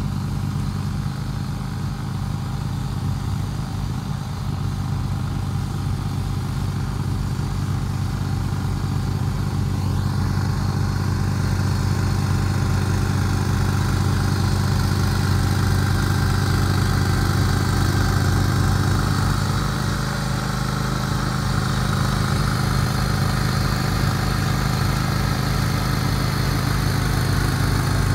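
John Deere X324 garden tractor's engine running steadily while powering a 44-inch front snowblower, with a brief dip in level about two-thirds of the way through.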